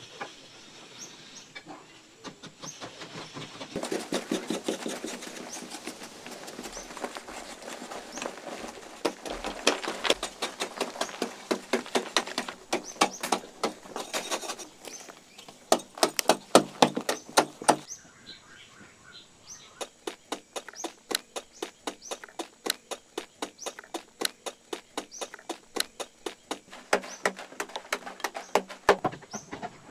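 Repeated sharp knocks or strikes, a few per second, in two long runs with a short break a little past halfway: the sound of hand-tool work.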